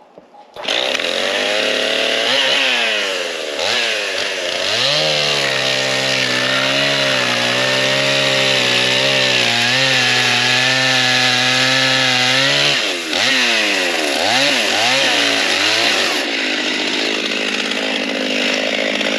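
Two-stroke chainsaw kicks in loud and is blipped up and down. It then runs at a steady high pitch for about eight seconds, as in a cut through wood. After a few more revs it drops back to a lower, steadier running note near the end.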